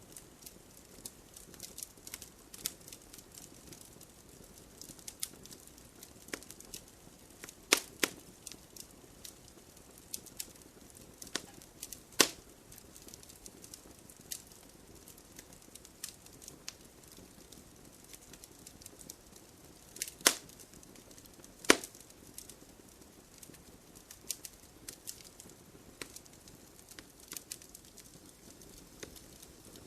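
Wood fire crackling: a steady scatter of small snaps and ticks over a faint hiss, with four louder pops of burning wood, about 8, 12, 20 and 22 seconds in.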